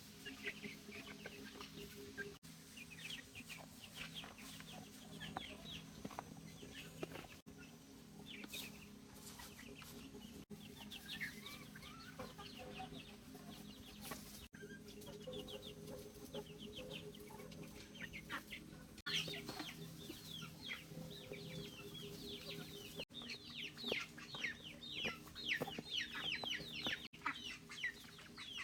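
Chickens clucking and peeping, a stream of short, high, falling calls that come thicker and louder near the end, over a steady low hum.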